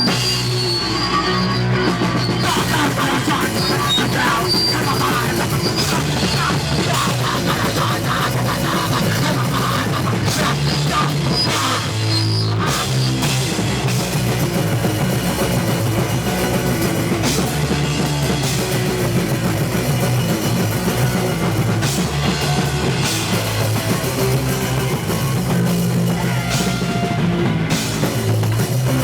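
Punk band playing live: distorted electric guitar, bass and drum kit, loud and unbroken.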